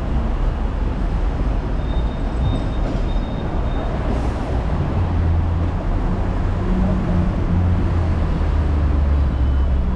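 Hong Kong double-decker electric tram running along its street tracks, a steady rumble heard on board, with a low hum that grows stronger about halfway through.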